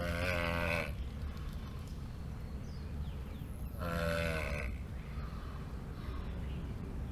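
A turtle calling: two pitched calls with a wavering pitch, each just under a second long, one at the start and one about four seconds in.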